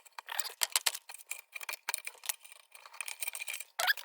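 Thin sheet-metal lantern parts being handled: a quick, irregular run of light metallic clicks, clinks and rattles.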